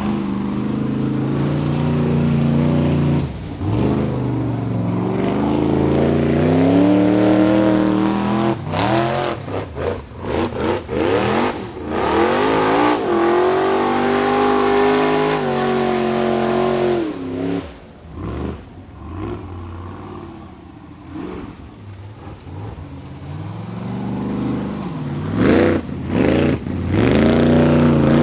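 Rock bouncer buggy's high-horsepower engine revving hard and dropping again and again on the climb, with sharp throttle chops between revs. It falls quieter for several seconds past the middle, then revs up again near the end.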